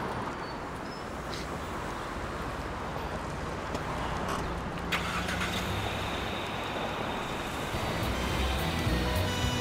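Car engine running steadily inside an old Soviet saloon as it gets ready to pull away, with a couple of short clicks from the controls. Background music comes in near the end.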